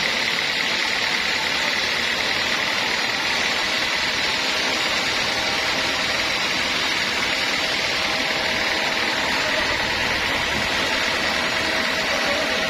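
Band sawmill running steadily, an even mechanical noise with a faint steady high tone over it.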